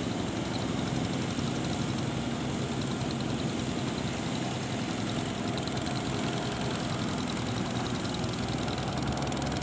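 An engine running steadily at a constant speed, a low hum with no change in pitch.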